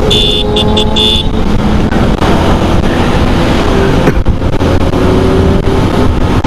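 Motorcycle engine and exhaust running loud and steady on the road. A vehicle horn beeps several short times in the first second.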